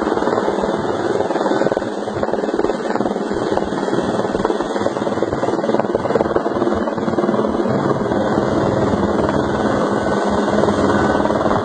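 Helicopter running close by, with a steady, loud rotor chop and turbine noise.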